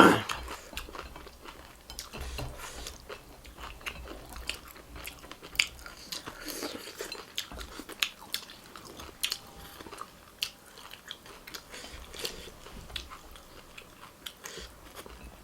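Close-up chewing and biting of crunchy food, with many short irregular crunches and crackles. A single sharp knock sounds right at the start.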